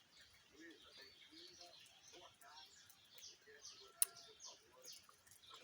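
Birds chirping faintly: a run of quick, downward-sweeping chirps, with one sharp click about four seconds in.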